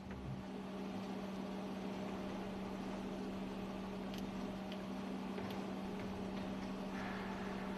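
Steady machinery hum of a ship's engine room, with one low tone over an even noise, and a few faint metallic clicks from tools about halfway through.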